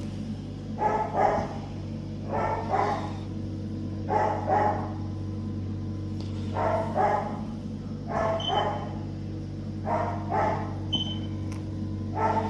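A dog barking repeatedly, in short bouts of one or two barks every couple of seconds, over a steady low hum.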